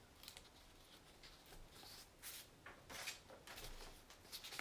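Near silence broken by faint, brief scratching strokes of writing, several in a row with short gaps.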